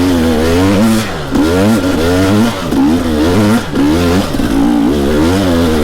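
Two-stroke dirt bike engine revving up and down over and over, about once a second, in repeated bursts of throttle.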